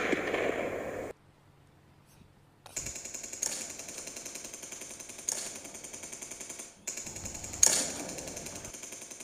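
Automatic gunfire sound effect: after a short silence, rapid firing sets in about three seconds in and keeps going, with a few louder shots standing out.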